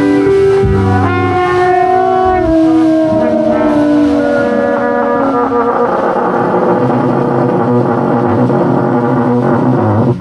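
Live improvised band music: a held note slides slowly down in pitch over several seconds while other instruments play, and the playing thickens into a dense, noisy wash in the second half.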